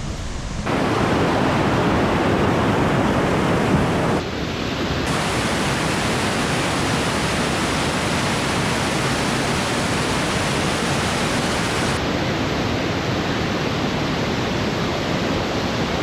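Steady rushing of a large waterfall, its level jumping up about a second in and dropping back a little around four seconds in.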